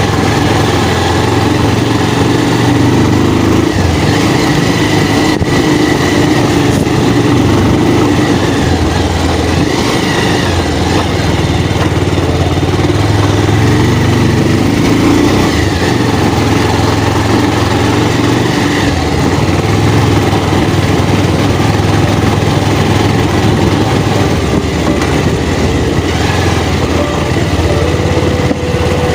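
Motorcycle engine running under way, its note shifting up and down with the throttle, under heavy wind and riding noise on the rider's microphone.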